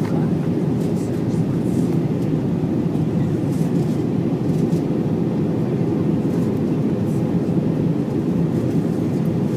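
Jet airliner cabin noise during landing: a steady, low, even rush of engines and airflow heard from inside the cabin.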